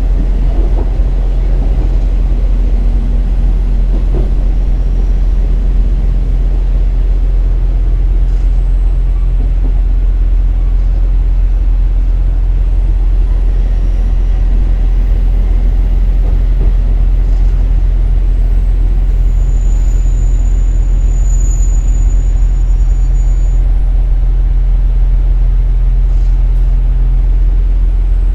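Diesel engine of a KiHa 47 series railcar running steadily, heard from inside the passenger car as a loud, even low rumble. A faint high whine comes in briefly a little past the middle.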